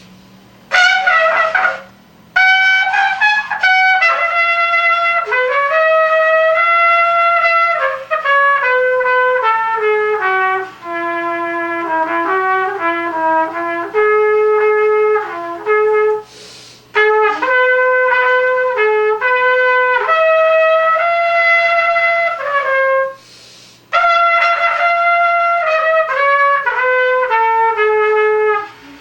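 Unaccompanied trumpet playing a melody in phrases, the notes stepping down and back up, with short breaks for breath about two seconds in, around sixteen seconds and again around twenty-three seconds.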